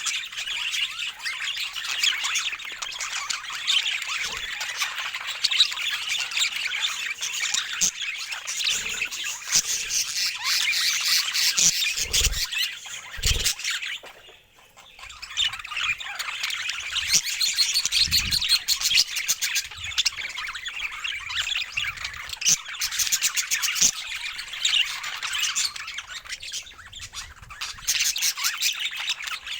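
Pet budgerigars chattering and warbling in a dense, continuous stream of chirps, which breaks off briefly about halfway through. A few low thumps come in the middle.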